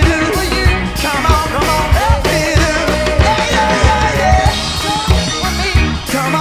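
Rock band playing a song, a steady drum-kit beat under a bending melodic lead line.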